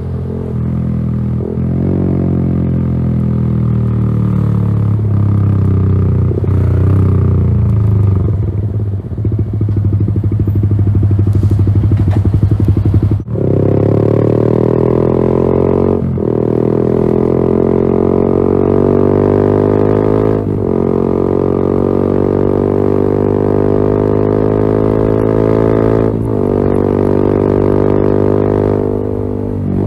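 Yamaha XSR 155's single-cylinder engine running through a LeoVince GP Corsa Evo exhaust while ridden, its note rising and falling with the throttle. There are short breaks in the note several times, the sharpest about 13 seconds in, followed by a long rising pull.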